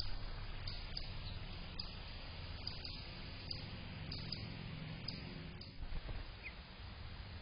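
Steady outdoor background noise with a low rumble at a bird bath, broken by scattered faint clicks and a single short rising chirp, typical of a small bird, about six and a half seconds in.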